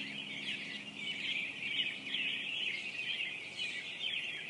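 Many birds chirping and twittering at once in a dense, unbroken chorus.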